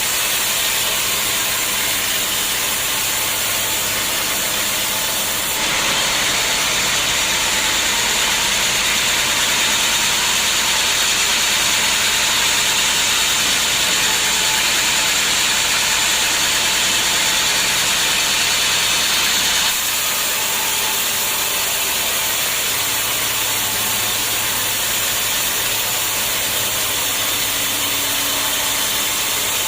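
Homemade band sawmill running steadily under engine power. About six seconds in, the sound turns louder and brighter, and it drops back abruptly about fourteen seconds later.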